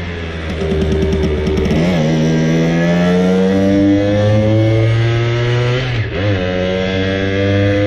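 Simson Habicht moped's small two-stroke single-cylinder engine revving up under acceleration, its pitch climbing steadily. The pitch drops briefly twice, about two seconds in and again about six seconds in, as gears are changed, then climbs again.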